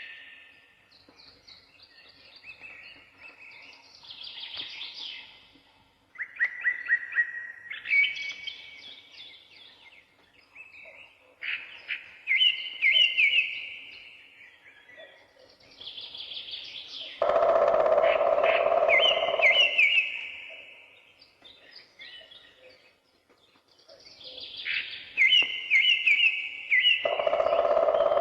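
Songbirds singing in short, repeated, trilling phrases with brief pauses between them. Twice, about two-thirds of the way in and again near the end, a louder, lower noise comes in suddenly and lasts a few seconds.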